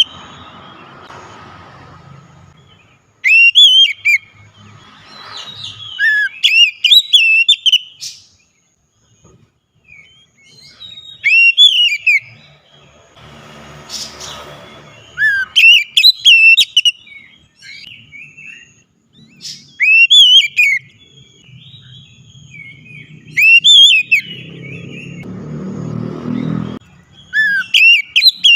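Oriental magpie-robin (kacer) singing loud, clear whistled phrases in short bursts every few seconds, with quick rising and falling notes. A low rumbling noise swells between the phrases, loudest a little before the end.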